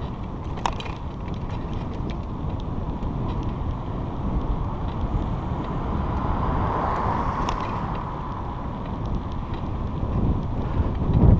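Wind buffeting the microphone during a bicycle ride on a trail: a steady low rumble with scattered light clicks and rattles from the bike, including a sharper click under a second in and another about seven and a half seconds in.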